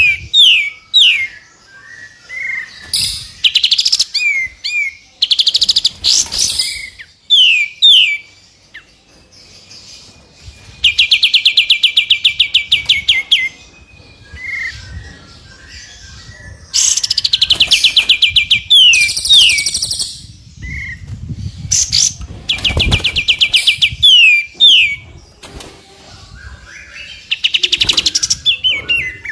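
Recorded songbird song played as a masteran training track. The track mixes three birds' songs: phrases of fast trills of repeated high notes lasting two to three seconds, each followed by quick falling whistled notes, with short harsh, very high buzzy bursts in between.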